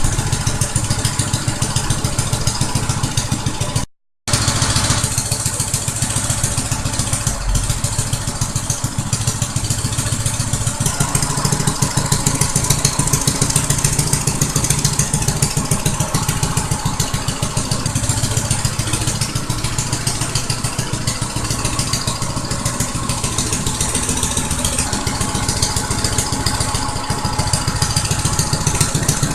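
Small engine of a motorized Big Wheel trike running steadily, with a fast pulsing note and no big revving. The sound cuts out completely for a moment about four seconds in.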